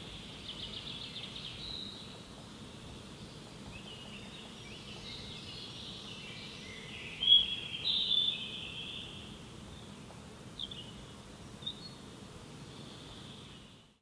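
Forest songbirds singing: a quick trill near the start, a louder run of song about seven to nine seconds in, and a couple of short calls after, over a faint low ambient hum. The sound fades out at the very end.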